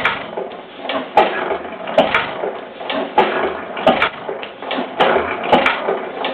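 Hercules 6 hp hit-and-miss engine running, with sharp beats about once a second over a steady mechanical clatter. It is noisy, with a knock that the owner thinks is a worn rod bearing that needs tightening up.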